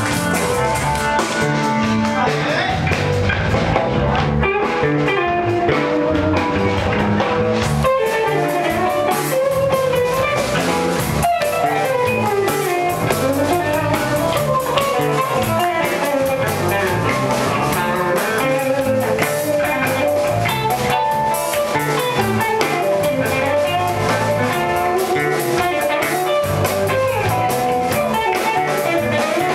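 Band music: guitar over a drum kit with a steady beat. The top end, cymbals by the look of it, fills in about eight seconds in.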